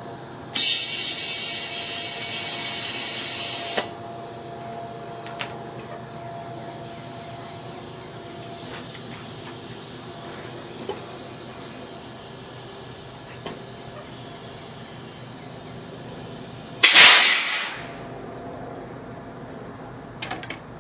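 Pressurised spray hissing steadily for about three seconds, then a second, shorter and louder hiss near the end, with a few faint clicks between.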